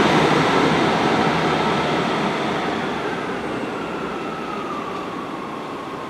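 Class 158 diesel multiple unit pulling away, its running noise fading steadily as it recedes. A faint high whine slides slowly down in pitch during the second half.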